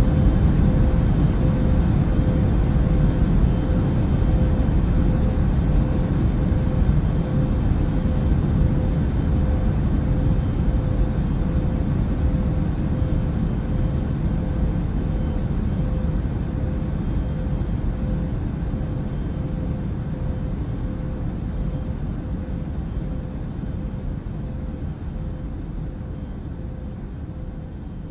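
Steady in-flight cabin noise of an Airbus A380 airliner at cruise: a deep, even rush of engine and airflow noise with a faint steady hum, slowly fading down over the second half.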